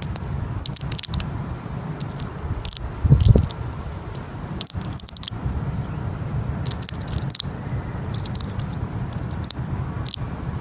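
A tit hammering at a peanut shell with its bill: irregular sharp taps and clicks, with two short high calls sliding down in pitch about three and eight seconds in. A low thud about three seconds in is the loudest moment, over a steady low rumble.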